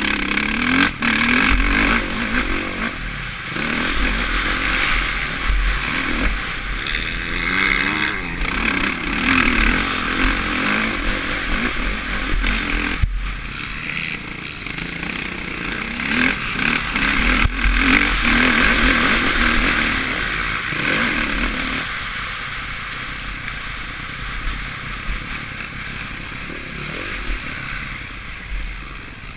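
Suzuki RM-Z450 single-cylinder four-stroke motocross engine revving up and down repeatedly as the bike is ridden round the track. It is heard from a helmet-mounted camera, with heavy wind rush and a few sharp knocks from the bike over the bumps. The engine eases off in the last several seconds.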